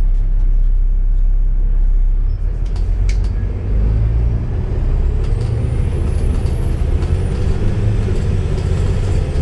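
Volvo B7TL double-deck bus's engine and drivetrain running under way, heard on board as a steady low rumble that grows heavier from about four seconds in.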